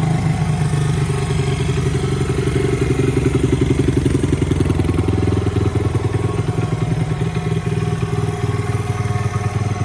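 Honda XR100R dirt bike's single-cylinder four-stroke engine running steadily, a rapid even firing pulse.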